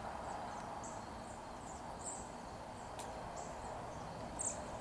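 Faint outdoor dusk ambience: a steady hiss with scattered short, high chirps, and a single sharp click about three seconds in.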